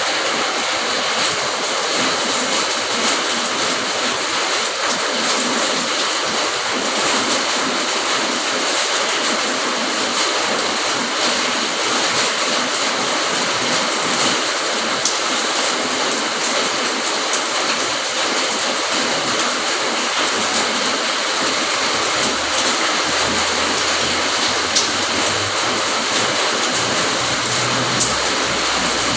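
Steady rain falling, an even hiss with a few sharper drop ticks; a faint low rumble comes in past the halfway point.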